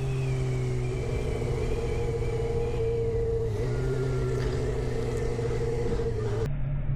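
A 2015 Suzuki GSX-R 750's inline-four engine with an Akrapovic slip-on exhaust, running at a steady low speed with a nearly constant pitch that shifts slightly about a second in and again past three seconds.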